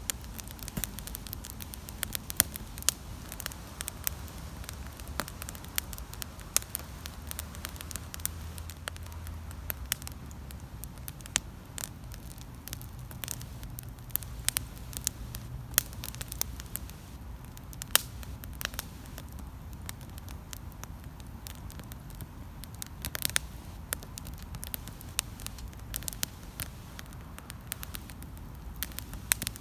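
Wood campfire burning, with dense irregular crackling and popping and a few louder snaps, over a steady low rumble.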